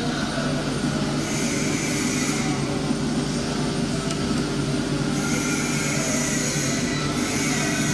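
Woodworking panel machinery running steadily with a constant motor hum, and a higher hiss that comes in about a second in for about a second and again from about five seconds in.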